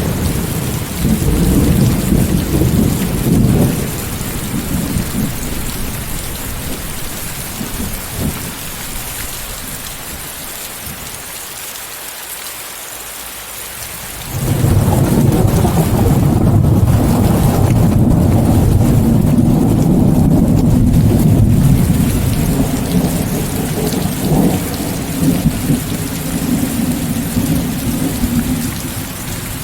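Steady heavy rain with rolling thunder. A rumble fades away over the first ten seconds, and after a short lull a second, louder peal breaks in suddenly about halfway through, rumbling for several seconds before slowly dying down.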